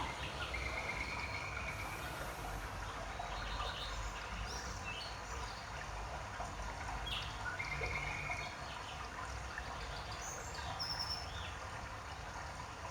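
Birds chirping now and then in short, high calls over a steady low background noise.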